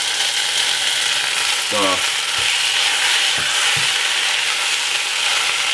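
Lamb pieces sizzling steadily as they brown in hot oil in a saucepan. There are a few short, soft knocks in the middle as the pieces are turned.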